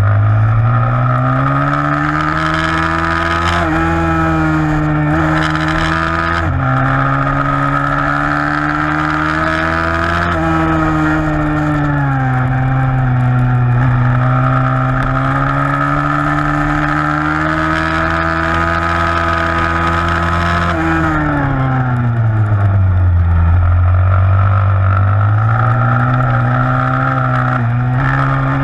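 A 160 cc pit bike engine held at high revs under race load, its pitch rising and falling with the throttle and small steps at gear changes. It drops to its lowest about three-quarters of the way through, then climbs again.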